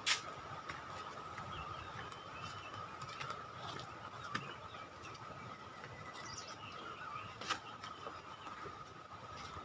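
Faint outdoor ambience: small bird chirps over a steady high-pitched hum, with a few sharp clicks, one at the start and one about seven and a half seconds in.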